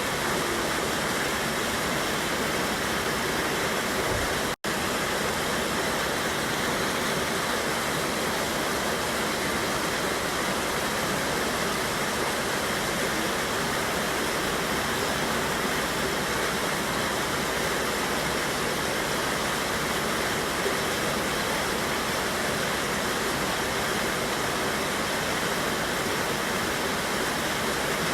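Mountain river water rushing steadily over a waterfall, an even unbroken noise, with a split-second dropout about four and a half seconds in.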